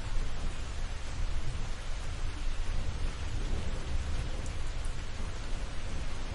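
Steady rain with a low rolling rumble of distant thunder underneath, as a thunderstorm approaches.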